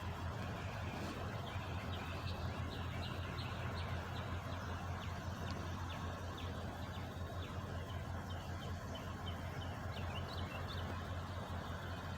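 Truck engine idling steadily with a low, even hum, while birds chirp in short high notes over it.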